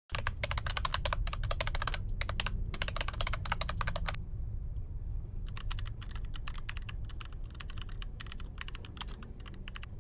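Fast runs of sharp clicking, dense for the first four seconds, then sparser and irregular, over the steady low rumble of a moving car picked up by a dashcam.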